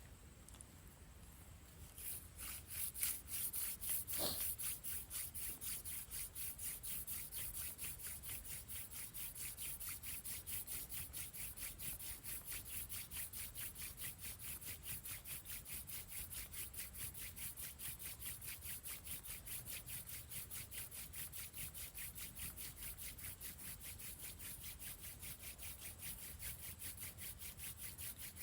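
Hand drill for friction fire: a wooden spindle spun back and forth between the palms, its tip grinding in the socket of a wooden fireboard as a fast, even scratching rhythm that starts about two seconds in. A single knock sounds shortly after it starts.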